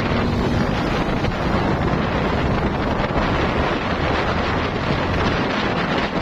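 Wind rushing over the microphone of a motorcycle on the move, loud and steady. The carburettor Honda Blade's engine runs faintly underneath.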